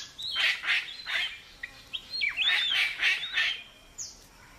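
Palm cockatoos calling: a run of harsh screeches, then several whistled calls that swoop up and down in pitch, and one short call near the end.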